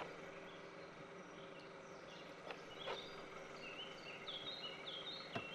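Faint outdoor background with a steady low hum and a few light clicks. From about halfway, a bird sings a run of short, high, stepped chirps.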